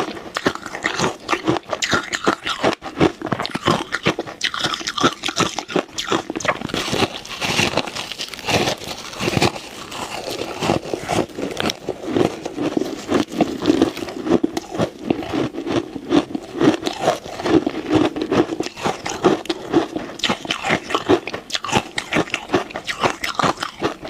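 Ice being bitten and chewed, a dense run of sharp, irregular crunches and cracks.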